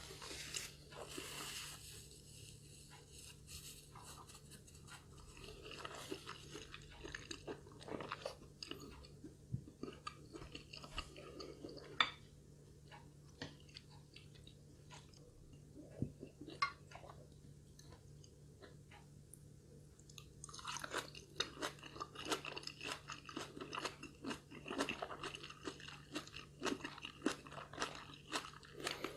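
Close-miked chewing and eating sounds of a person eating a meal: a run of short, sharp mouth clicks and bites, sparse through the middle and coming thick and fast from about two-thirds of the way in.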